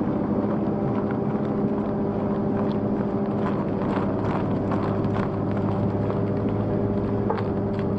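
Wood chipper's engine running steadily, with irregular sharp cracks and snaps from about three seconds in as wood is broken up.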